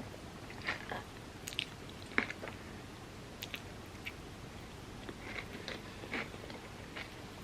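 Close-up chewing and biting of oatmeal topped with hardened chocolate and crispy pistachio kataifi: scattered small crunches and wet mouth clicks, the sharpest about two seconds in.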